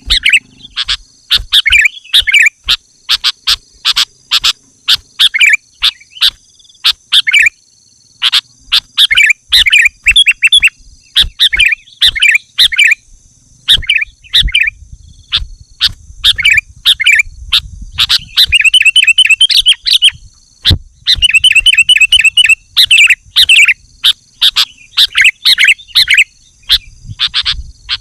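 Sooty-headed bulbul (kutilang) singing loudly and almost without pause, quick bubbling chirped phrases, with fast runs of rapidly repeated notes about two-thirds of the way through. A faint steady high whine runs behind.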